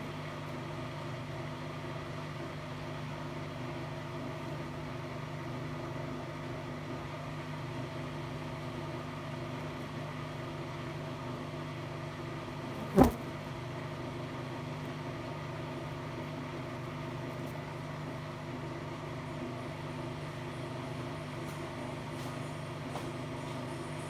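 Hotpoint-Ariston Aqualtis AQD972F washer-dryer running with a steady, low hum, with a single sharp knock about halfway through.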